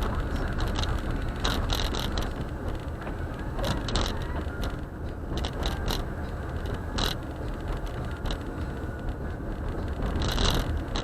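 A car driving on a snowy road on Blizzak winter tires: a steady low rumble of tyre and road noise, with irregular clicks and knocks.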